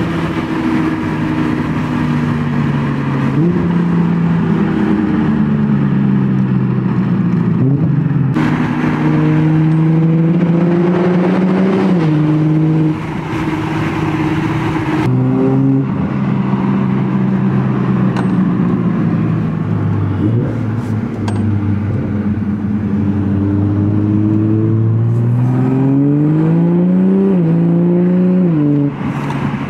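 Toyota Supra with a Tomei aftermarket exhaust accelerating through the gears: the exhaust note climbs steadily in pitch, drops at each upshift, then climbs again, several times over.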